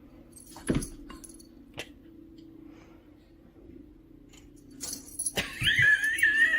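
A sharp knock about a second in, then near the end a high, wavering animal cry over rustling noise.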